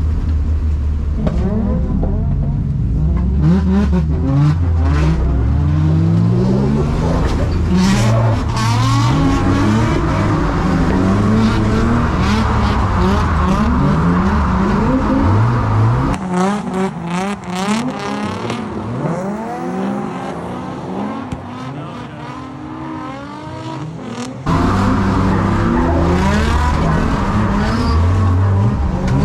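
Drift car engines revving hard. Their pitch climbs and drops over and over as the cars slide through the course. About halfway through, the sound turns thinner and quieter for several seconds, then comes back full.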